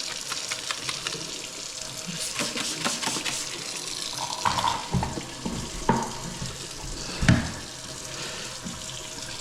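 Kitchen faucet running into the sink as the dishwasher air gap cap is rinsed clean, with a few sharp knocks of the part against the sink.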